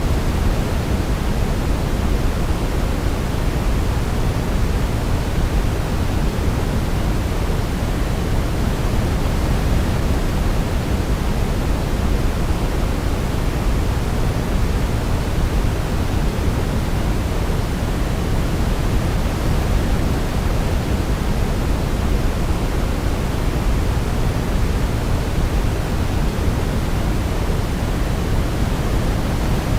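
Steady, unchanging pink-type sleep noise for a baby: an even rushing hiss, heavier in the low end and softer in the highs, with no melody or other sound standing out.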